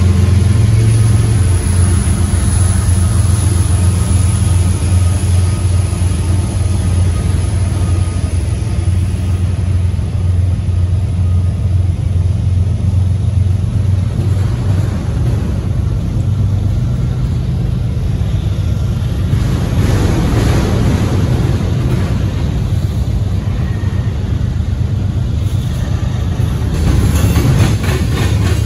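Freight train passing close by. In the first few seconds a BNSF diesel-electric locomotive's engine hums as it goes past. It is followed by the steady rumble and clatter of autorack and tank cars rolling over the rails.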